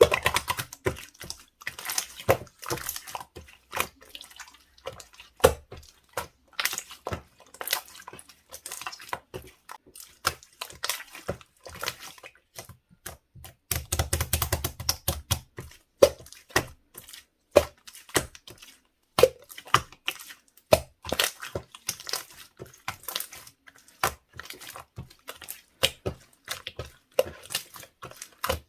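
Slime being squished and pressed by hand: a steady stream of sharp wet clicks and pops, thickening into a denser squishing run about halfway through.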